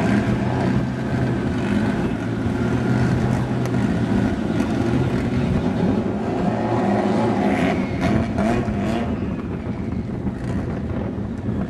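Car engine running with a steady low note over general engine and track noise.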